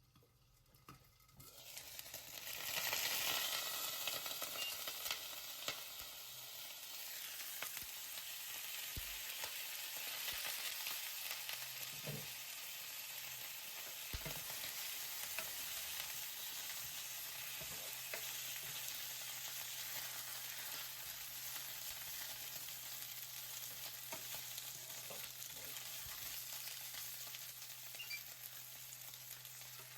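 Lemon-marinated chicken frying in a pan. The sizzle sets in sharply about two seconds in, loudest at first as the food meets the hot oil, then settles into a steady sizzle with a few light clicks.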